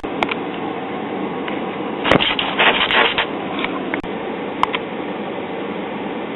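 1966 Zenith tube AM clock radio hissing with static between stations, with scattered sharp crackles and a louder burst of crackling about two to three seconds in.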